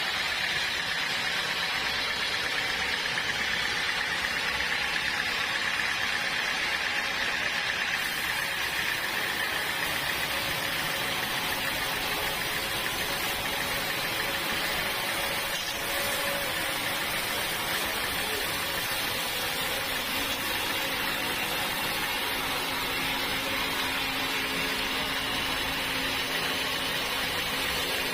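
Sawmill running steadily while its saw cuts through a hard acacia log, a continuous mechanical drone with a high whine that is strongest for the first several seconds.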